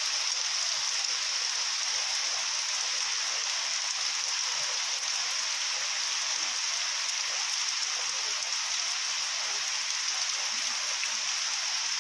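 Heavy rain pouring steadily onto a waterlogged courtyard, an even unbroken hiss of falling drops.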